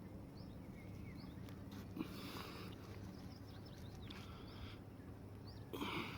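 Small bird chirps over a steady low outdoor background, with a sharp click about two seconds in and a few brief noisy rustling bursts, the loudest near the end.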